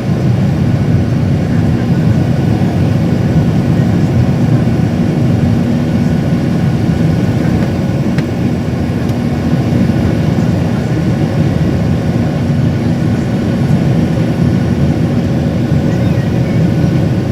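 Airliner's jet engines running steadily at take-off power: a loud, even low rumble with a faint steady hum through it.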